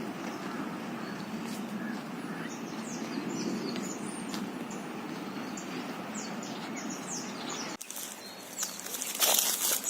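Outdoor ambience with a steady low rumble and many quick, high chirps from small birds in the middle stretch. About 8 s in the sound cuts abruptly to a hissier stretch with loud rustling bursts near the end.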